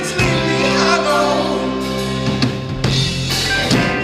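Live band music between sung lines: sustained chords over a steady bass, with drum kit hits coming in about halfway through.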